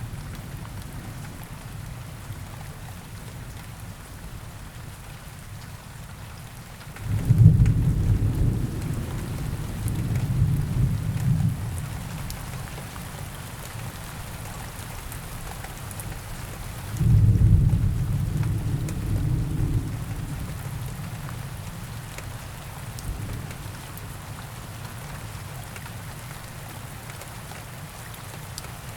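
Steady rain falling, with two low rolls of thunder: the first starts about seven seconds in and rumbles for several seconds, the second comes about ten seconds later and is shorter.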